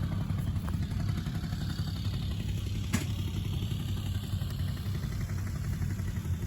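An engine running steadily at idle, a constant low hum, with one sharp click about three seconds in.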